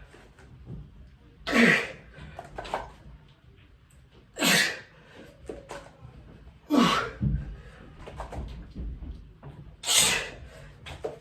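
A man breathing out hard with a short grunt on each rep of a dumbbell set, four forceful exhales about every two to three seconds. Faint rubbing and small clicks come between them.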